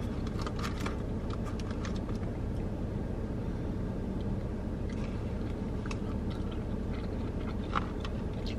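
Close-up chewing and biting of a sub sandwich, with short clicks and crunches scattered through, over a steady low hum in a car's cabin.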